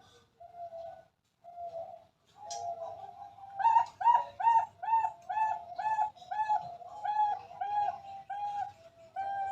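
A zebra dove (perkutut) singing: a few short coos, then from about two and a half seconds in a long series of quick, evenly repeated cooing notes, about two a second, loudest near the start of the series.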